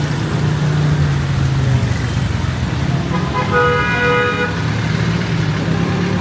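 Street traffic with vehicle engines running close by, and a vehicle horn sounding once for about a second, a little past the middle.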